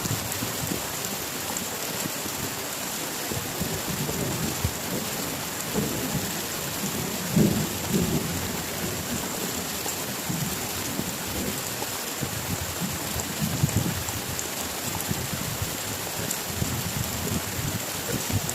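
Heavy rain falling steadily, with low rumbles of thunder through it, the strongest about seven and a half seconds in and again near fourteen seconds.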